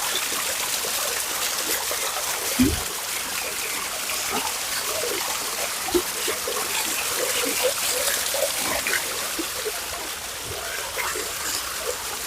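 Running water splashing and trickling steadily, with two short low thumps, the first about two and a half seconds in and the second about six seconds in.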